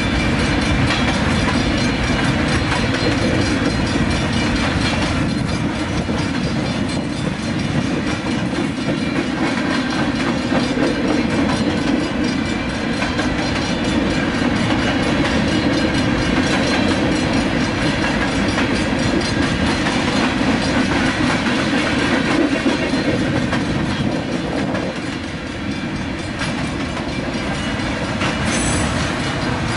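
Freight train cars rolling past a grade crossing: a continuous loud rush of steel wheels on rail. A brief high-pitched squeak comes near the end.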